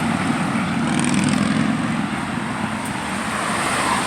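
Steady rushing wind noise on the microphone during a bicycle ride.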